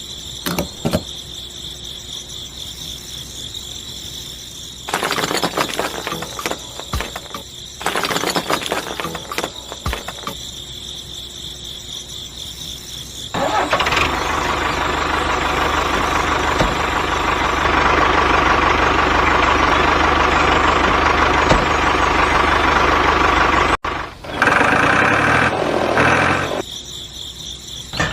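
A small electric motor runs steadily for about ten seconds, stops abruptly, then runs again briefly. Two stretches of clattering come before it, and crickets chirp steadily in the background.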